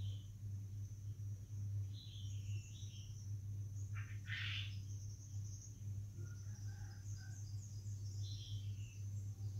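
Small birds chirping in short calls a few times, over a steady low hum and a faint steady high-pitched tone.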